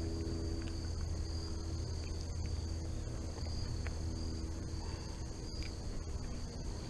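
Steady chorus of insects, crickets or similar, a continuous high-pitched trill, over a constant low rumble.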